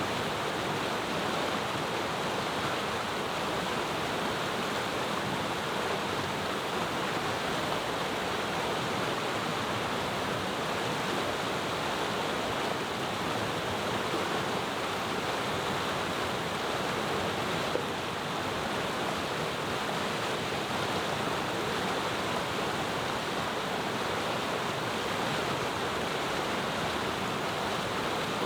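A clear mountain river rushing and babbling over stones, a steady, even rush of water with no pauses.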